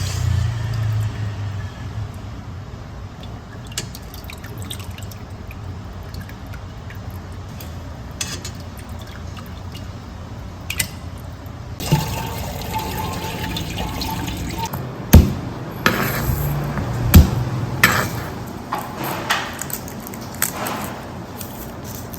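Water running from a kitchen tap, starting abruptly about halfway through, with a few sharp knocks of kitchenware.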